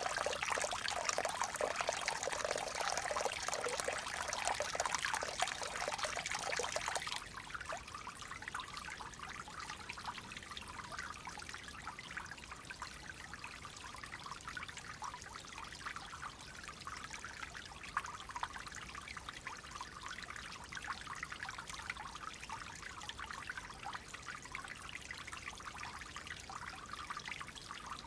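Stream water flowing and trickling steadily. About seven seconds in it changes abruptly to a quieter, thinner trickle.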